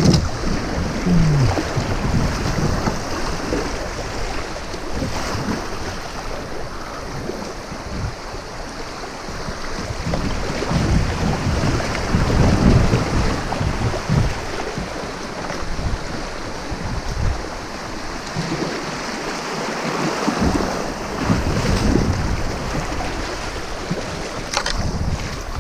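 Rushing water of a small river rapid as a kayak runs through it, with wind buffeting the microphone in uneven low gusts.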